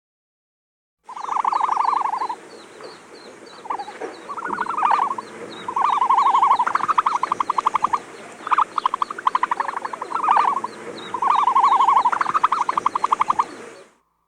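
Repeated animal calls: about every two to three seconds a held note runs into a fast pulsing trill, all near the same pitch, over a faint chorus of higher chirps.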